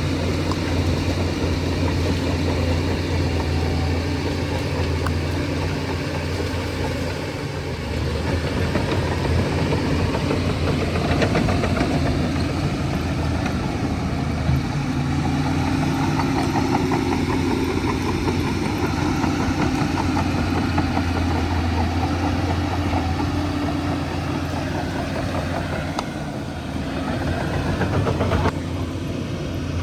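Shantui DH17C2 bulldozer's diesel engine running steadily under working load, its note shifting now and then, with a sudden change near the end.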